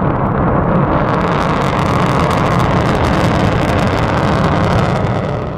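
Rocket launch sound effect: loud, steady noise of rocket engines firing at lift-off, building slightly at first, then holding even and cutting off abruptly at the end.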